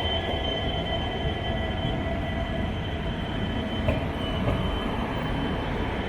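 Passenger train running slowly: a steady low rumble with a constant high whine, typical of wheels squealing on the rails.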